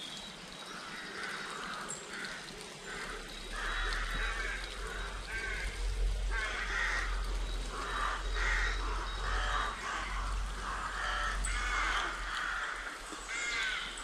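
Birds calling over and over, short calls about every second, with a low rumble underneath from about three seconds in.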